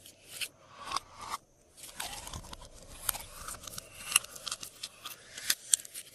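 Glossy slime being mixed by hand, making irregular sharp clicks, crackles and pops with short squelching swells.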